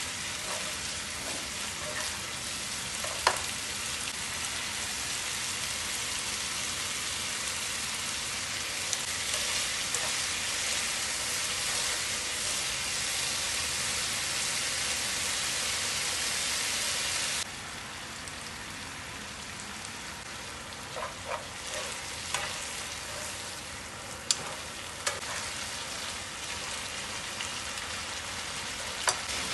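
Spaghetti, broccoli and meat sizzling steadily in a hot nonstick pan while being stir-fried and tossed, with a few sharp clicks as the wooden chopsticks knock against the pan. The sizzle drops suddenly to a softer level a little past halfway.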